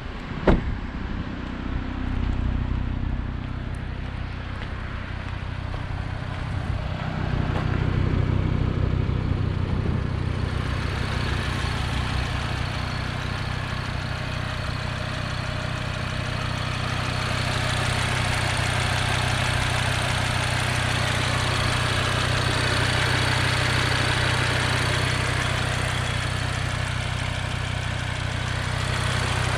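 A car door shuts with a single thump about half a second in, then the Audi RS3's turbocharged 2.5-litre five-cylinder engine idles steadily, with a rushing hiss growing louder from about seven seconds in.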